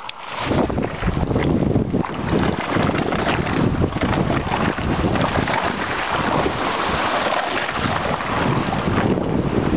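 Wind buffeting the microphone: a loud, gusty rumble that carries on without a break.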